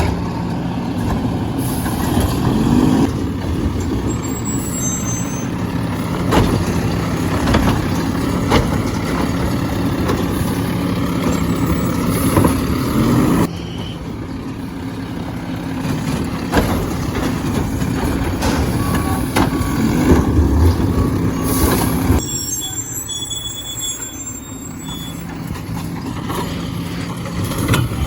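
Garbage truck engine running steadily, with scattered knocks and clanks and a couple of short rising whines. The sound changes abruptly twice.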